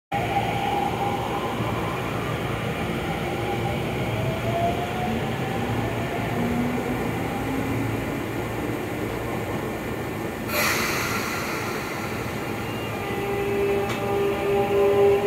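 Sotetsu electric commuter train at the platform, its motors whining in gliding tones. A sharp burst of air hiss comes about ten seconds in, then a steady whine that starts to rise near the end as the train pulls away.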